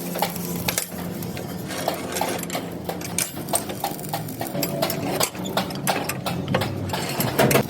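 Metalworking workshop noise: a steady machine hum with many irregular sharp metal clicks and knocks over it.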